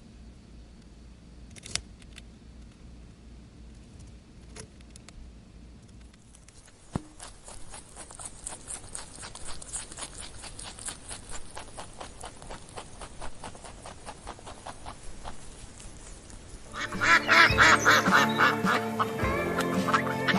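A few scattered clicks, then a long run of rapid clicking or clattering. About three seconds before the end, loud quacking calls begin.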